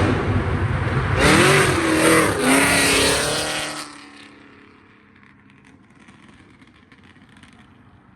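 A car's engine revving hard as it accelerates away, its pitch climbing and dropping several times, then fading out about four seconds in.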